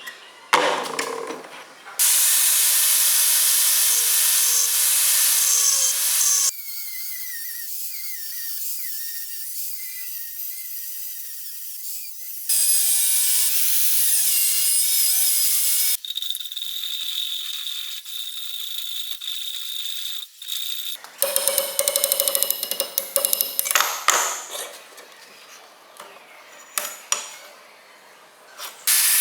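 Metalworking tools on steel in a string of short edited clips: loud, steady power-tool runs alternate with quieter work that carries a steady high whine, and near the end comes a series of separate short strokes.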